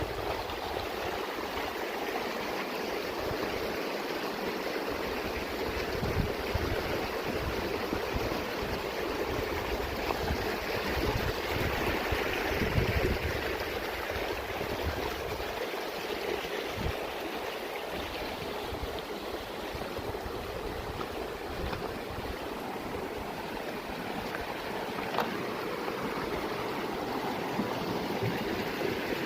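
Mountain stream rushing steadily over rocks, with occasional low bumps and rumbles underneath.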